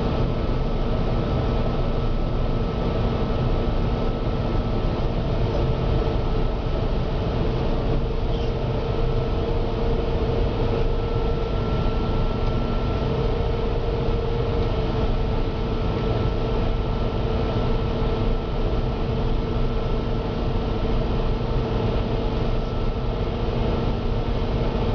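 Gleaner N6 combine running steadily: a constant dense mechanical drone with a couple of steady whine tones over it.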